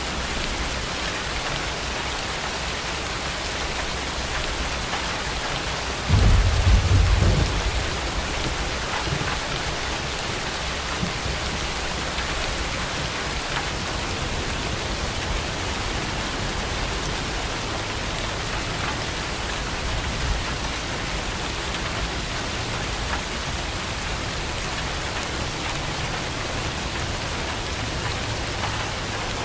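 Heavy rain falling steadily, with a short low rumble of thunder about six seconds in.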